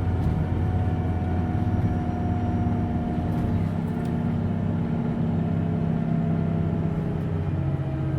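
Interior of a Hino Blue Ribbon City Hybrid city bus under way: the diesel-hybrid drivetrain runs steadily over road rumble, its tones slowly falling in pitch.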